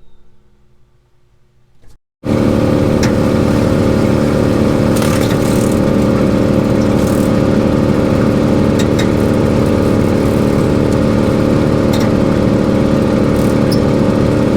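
Woodmaxx PTO wood chipper running off a Kubota M7060 diesel tractor: a loud, steady machine drone that starts abruptly about two seconds in, with a few sharp cracks scattered through it.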